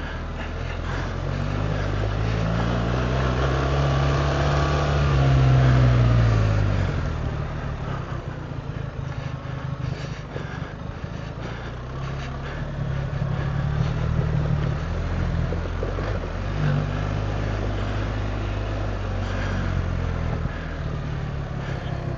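BMW R 1300 GS Adventure's boxer-twin engine running with revs rising and falling as it is ridden, loudest about five to six seconds in.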